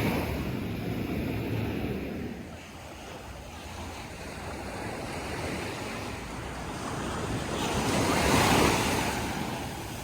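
Sea waves breaking and washing up a beach, with wind on the microphone. A wave surges loudest about eight seconds in.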